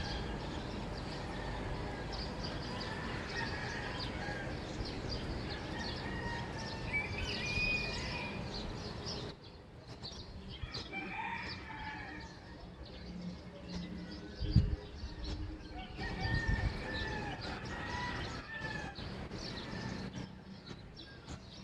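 Morning neighborhood ambience: a rooster crowing among chickens and small birds chirping. A steady background hiss drops away suddenly about nine seconds in, and a single loud low thump comes about five seconds later.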